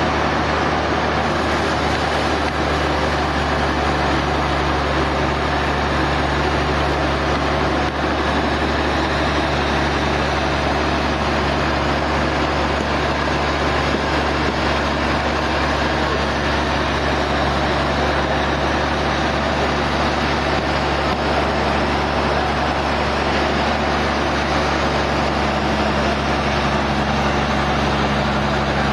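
Sawmill machinery running steadily: a constant motor hum under an even, noisy whir, with no break or change.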